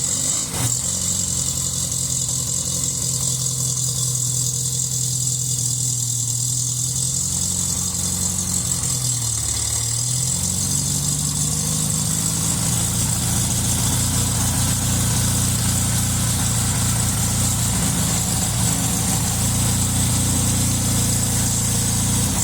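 Freshly rebuilt car engine on its first run after sitting three years, idling steadily. About nine seconds in the idle sags briefly, then picks back up and holds a slightly faster steady idle.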